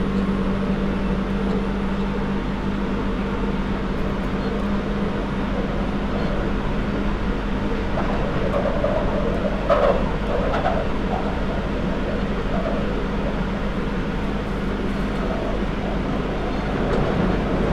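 London Underground 2009 Stock train running between stations, heard from on board: a steady rumble with a steady motor hum that fades about halfway through. There is a brief knock about ten seconds in.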